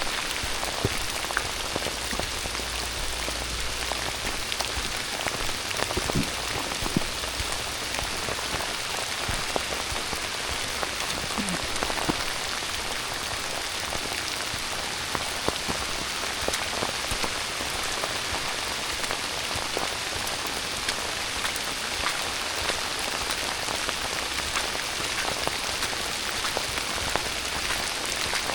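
Steady heavy rain falling, an even hiss with many individual drops ticking close by.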